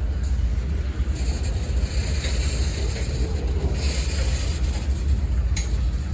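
Diesel locomotives of a CSX manifest freight train running with a steady low rumble, with a short sharp click near the end.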